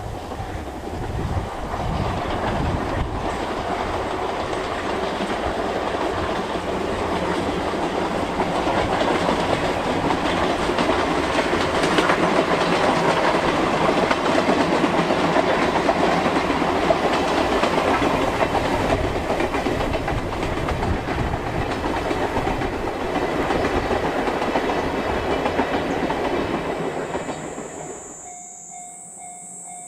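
C57 steam locomotive and its train of coaches running past, with wheels clattering over the rail joints; the sound swells to a peak midway and then fades.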